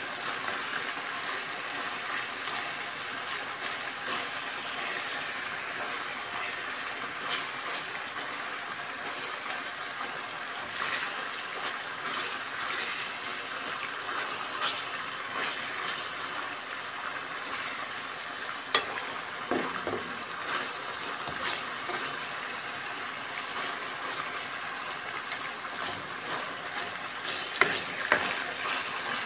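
Slices of marinated liver sizzling steadily as they fry in hot oil in a wok. A metal ladle clicks against the pan a few times, once about two-thirds of the way in and several times near the end.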